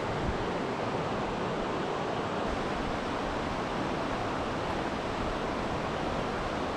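Steady rush of fast-flowing mountain river water.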